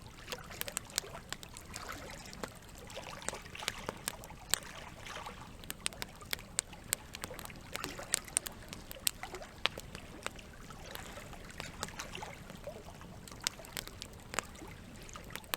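Campfire crackling: many sharp pops and snaps at an irregular pace over a steady hiss of running water.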